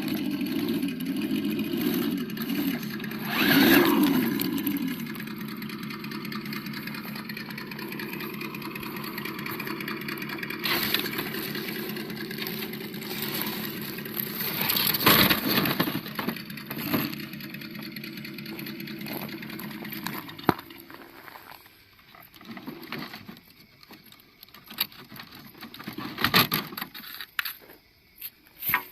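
Simulated engine sound from the sound module of an Absima Yucatan 1:8 RC crawler, playing through its small speaker: it revs briefly near the start, then runs steadily until it cuts off suddenly about twenty seconds in. After that there are only scattered crunching clicks.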